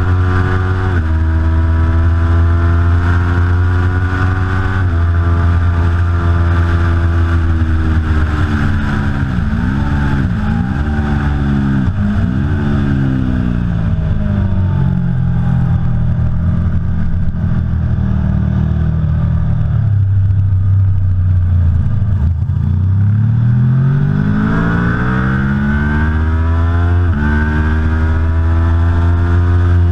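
Aprilia Tuono V4 Factory's V4 engine at race pace: revving hard and upshifting, then a run of quick throttle blips on downshifts as it brakes, lower revs through a corner, and a long rising pull as it accelerates out and shifts up again.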